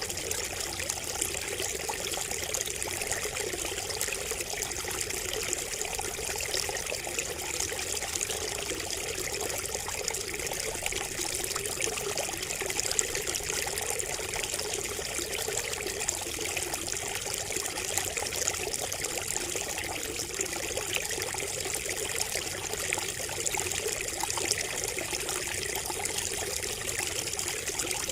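Water trickling and splashing from a bamboo spout, steady and continuous.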